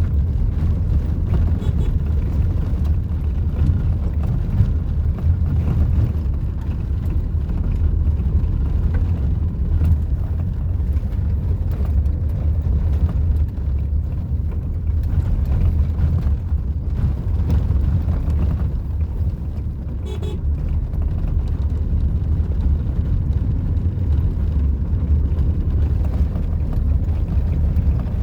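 Steady low rumble of a moving vehicle, with a short horn toot about 20 seconds in.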